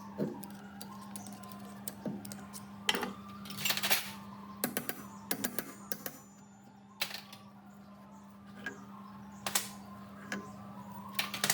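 Irregular clicks, knocks and short scrapes of hand work on metal machine parts, over a steady low hum.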